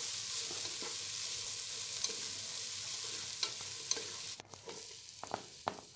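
Chopped vegetables and scrambled egg sizzling in hot oil in a pan while a spatula stirs them, with a few light taps of the spatula against the pan. The sizzle cuts off suddenly about four and a half seconds in, leaving a quieter stretch with a few soft knocks.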